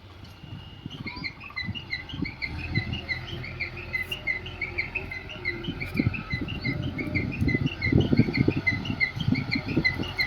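Small birds chirping in a rapid repeated series, about three short high chirps a second, over an irregular low rumble that swells toward the end.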